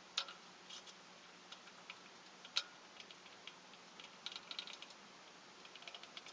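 Scattered light clicks and taps from tools and small parts being handled during engine work. A few come in quick runs, and the sharpest is about two and a half seconds in.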